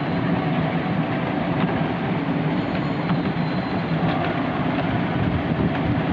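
Miniature railway train running along its track, heard from on board: a steady rumble of wheels and carriages.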